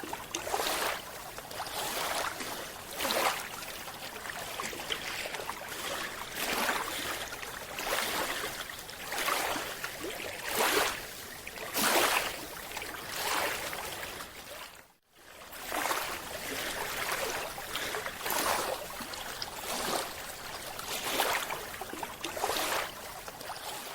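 Water noise, rushing and bubbling, that swells in regular surges about every second and a half, with a brief break about fifteen seconds in.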